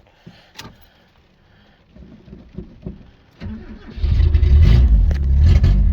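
Toyota Starlet's engine being started: a couple of seconds of starter cranking, then the engine catches about four seconds in and runs with a loud, steady low rumble.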